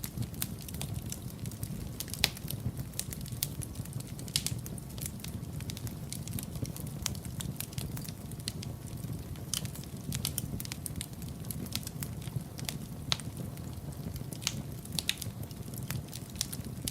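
Wood fire in a fireplace crackling, with irregular sharp pops and snaps over a steady low rumble of burning; a couple of louder pops early on.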